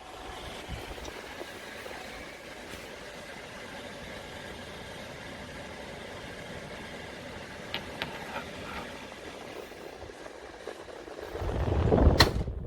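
Tower fan running, a steady rush of air. Near the end the sound swells louder and there is a sharp click.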